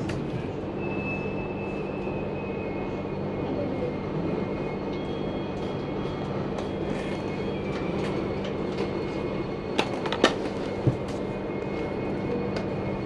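Inside a passenger train carriage rolling slowly: a steady rumble with a low hum, faint high-pitched whines, and a few sharp clicks about ten seconds in.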